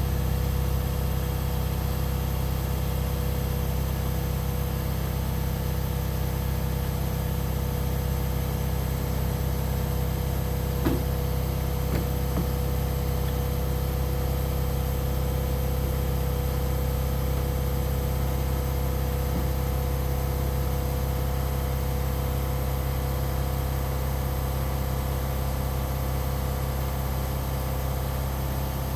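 Minneapolis-Moline UB tractor engine idling steadily, with a couple of light clicks around the middle.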